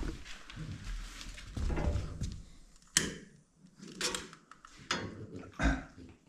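Parts of an oil-burning cabin stove being handled as it is readied for lighting: a few sharp knocks and clacks with some rustling between them.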